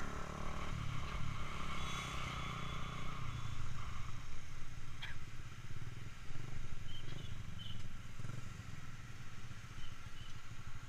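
Yamaha Jupiter MX's single-cylinder four-stroke engine running through an aftermarket DBS exhaust while the motorcycle is ridden, a steady engine note throughout.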